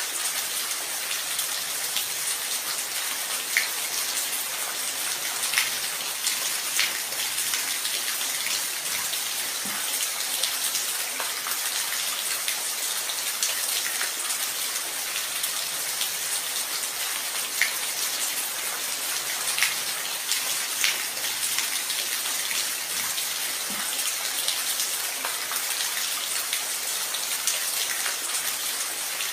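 Steady rain falling, with a dense hiss and distinct drops ticking on a surface here and there.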